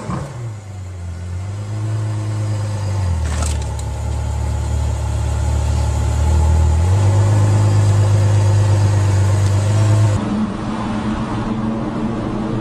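Ferrari F12berlinetta's V12 engine running at low revs while the car inches along a wall, its note shifting in pitch a couple of times. About ten seconds in, it cuts to the steady noise of a car driving on the road.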